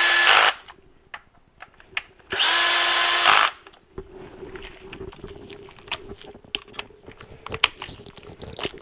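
Handheld power driver running in two short spurts: the first ends about half a second in, the second lasts about a second and starts about two seconds later. Light clicks and taps follow.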